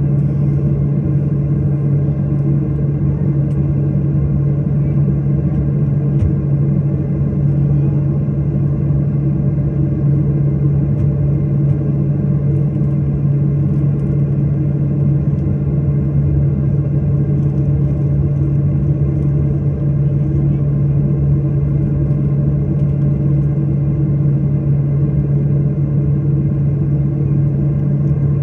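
Steady drone of an airliner heard inside the cabin: engine and airflow noise with a strong low hum that holds one pitch and does not rise or fall.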